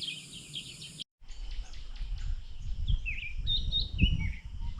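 Birds chirping and calling, short repeated chirps and down-slurred whistles, over a low rumble; the sound cuts off abruptly about a second in and resumes.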